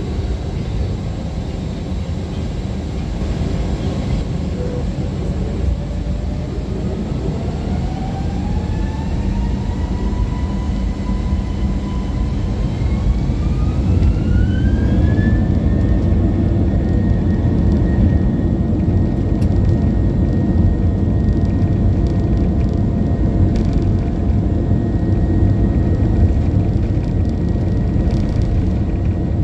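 Airbus A321 jet engines spooling up to takeoff thrust, heard from inside the cabin. A whine climbs steadily in pitch for about twelve seconds, then holds at one pitch, over a loud low rumble that grows louder.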